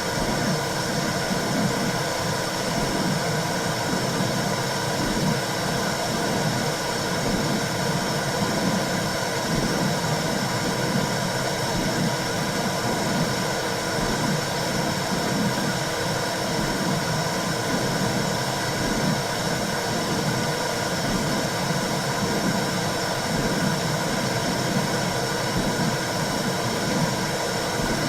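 Womb-sound track for soothing babies: a steady whooshing noise, with a low rumble that swells and fades in a continual pulsing pattern underneath.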